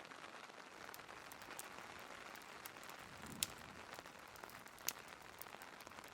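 Steady rain with fireplace crackles over it: a scatter of small pops and two sharper snaps about three and a half and five seconds in.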